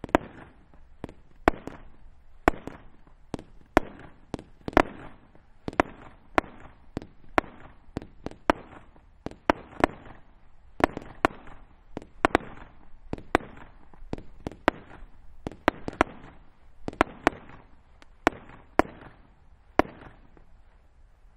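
A 20 mm consumer firework battery firing shot after shot, about two bangs a second, each burst followed by crackling. The bangs stop shortly before the end.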